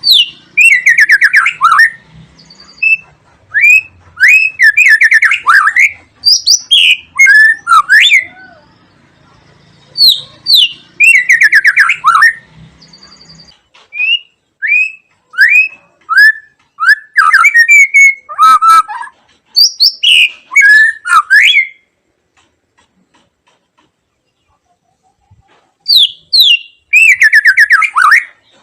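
White-rumped shama (murai batu) singing: loud, varied phrases of sharp gliding whistles and rapid trills, broken by short gaps and one pause of about three seconds past the middle.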